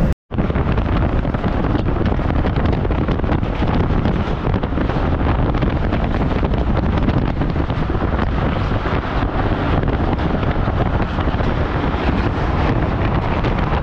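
Wind buffeting the microphone, held out of a moving local passenger train, over the train's steady running noise as it crosses a steel truss bridge. The sound cuts out for a moment right at the start.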